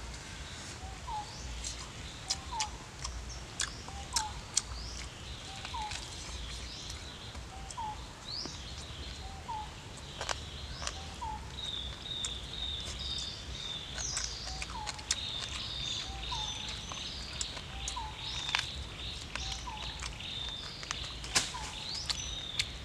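Forest birdsong: one bird repeats a short two-note call, the second note sliding upward, a little more often than once a second, and a higher chattering of calls joins about halfway through. Scattered sharp clicks sound over it.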